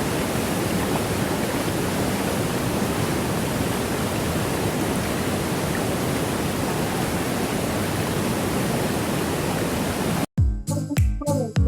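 Steady rush of a waterfall, an even, unbroken roar of falling water. About ten seconds in it cuts off abruptly, and music with deep bass notes takes over.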